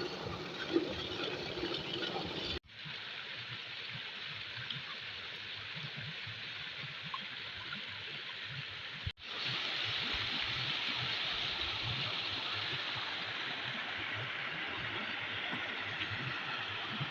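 Water of a small waterfall, low in the dry season, splashing and running over rocks as a steady hiss. It drops out for an instant twice, about two and a half and nine seconds in, and is a little louder after the second break.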